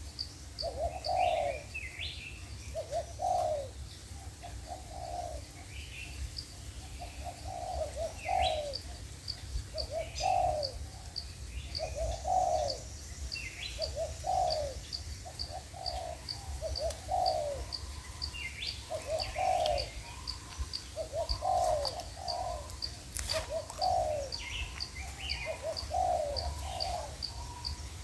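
Spotted doves cooing over and over, phrases following one another every second or two, as a caged decoy and a wild bird call back and forth. A steady high ticking runs underneath, about two and a half ticks a second, with a few short higher bird chirps.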